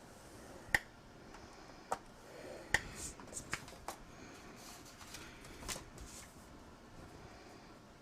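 Black cardstock and crafting tools being handled while scoring paper: a handful of sharp clicks and taps on the work surface, with soft paper rustling between them.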